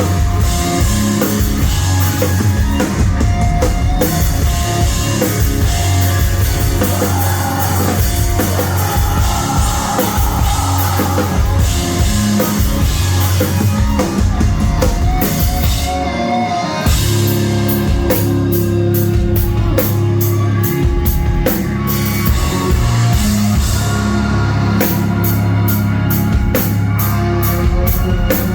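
Live rock band playing loud, with a full drum kit, guitar and bass. In the second half the drums drive a run of fast, even hits.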